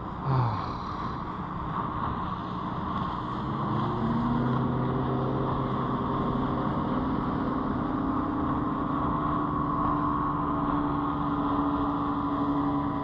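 Motorboat's outboard engine running close by, its pitch rising over the first few seconds and then holding steady, over a constant hiss.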